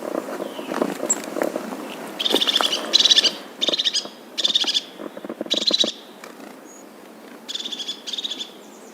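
A small bird calling in a series of short, fast trilled chirps, about seven phrases each under a second long, starting about two seconds in. Before that there is low rustling with a few clicks.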